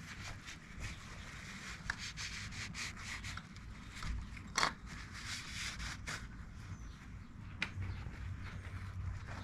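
Rubbing and scrubbing as a motorcycle's oil filter housing cover is wiped clean, in many short strokes with a few light clicks and knocks.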